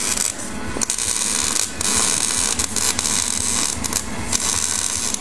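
Arc welder crackling steadily as a welding rod burns onto thin, rusted ATV metal, with a couple of brief breaks in the arc.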